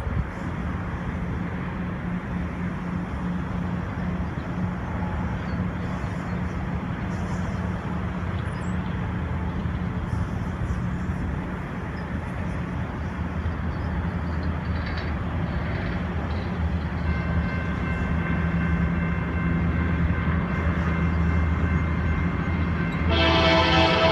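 Train running past, a steady rumble of rail noise with the low drone of diesel locomotive engines. About a second before the end, a loud chord of steady tones sets in.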